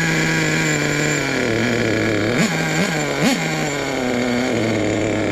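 Small nitro RC truck engine running, dropping to a low idle, then blipped three times in quick succession and settling back to idle. It is struggling for fuel, which the owner puts down to dirt in the fuel system.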